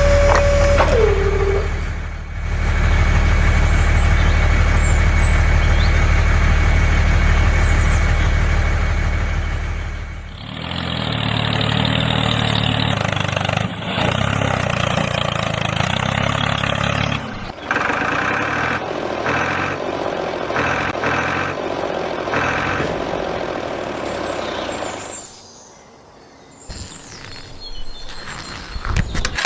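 A vehicle engine running steadily. About ten seconds in its sound changes, it changes again a few seconds later, and it falls away near the end.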